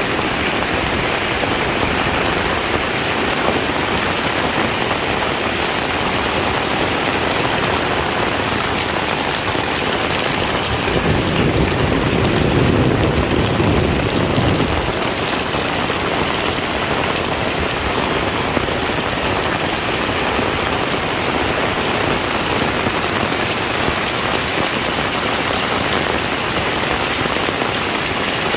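Heavy rain falling steadily. About eleven seconds in, a low rumble swells for a few seconds and then fades back into the rain.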